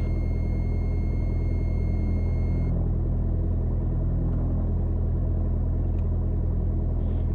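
Mooney M20J's four-cylinder Lycoming IO-360 engine and propeller idling on the ground, a steady low drone heard inside the cockpit. A faint high-pitched electronic whine cuts off about a third of the way in.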